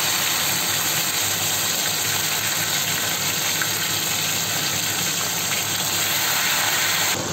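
Tomato pieces sizzling in hot mustard oil in a kadai: a steady frying hiss.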